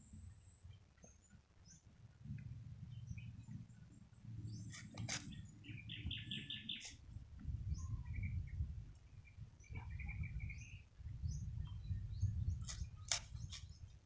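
Small birds chirping in short rapid trills over a low, uneven rumble. Two sharp knocks, about five seconds in and near the end, come from a knife paring a banana sucker's corm.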